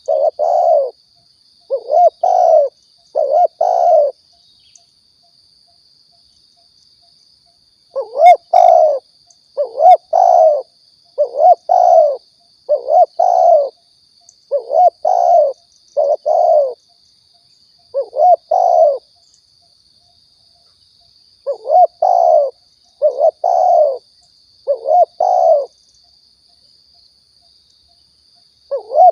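Spotted dove (tekukur) cooing: repeated low two- and three-note phrases, with pauses of a few seconds between groups. This is the dove's song as played to lure doves in. A faint steady high hiss runs underneath.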